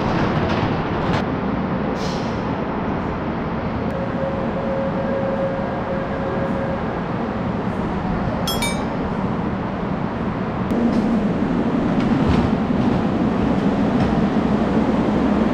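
Steady noise of a train in an underground station, growing louder with a stronger low hum about eleven seconds in. A brief metallic clink about halfway through.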